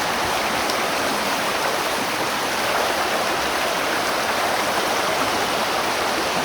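A river rushing and flowing over rocks, a steady, even rush of water.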